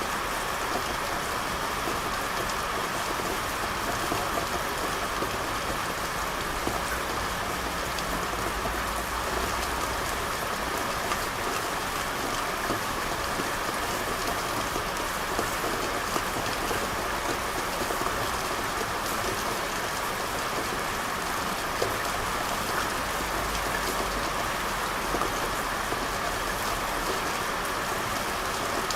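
Steady rain falling on a hard street surface, a dense even hiss with many fine drop ticks. A low rumble underneath swells partway through and again near the end.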